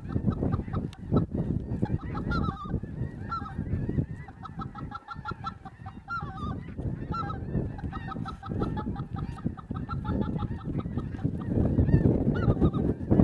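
A flock of geese calling, many short honking calls overlapping in quick succession, over a steady low noise that grows louder near the end.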